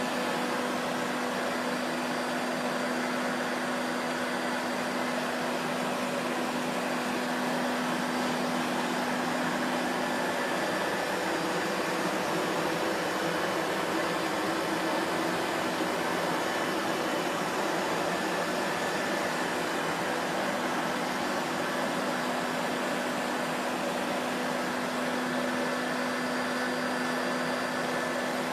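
Vacuum cleaner motor running steadily, a continuous airy rush with a low hum in it. The hum fades for a while in the middle and comes back.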